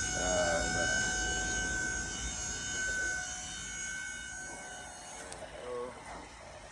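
A ringing metallic tone, like struck metal, fading slowly and dying away about five seconds in.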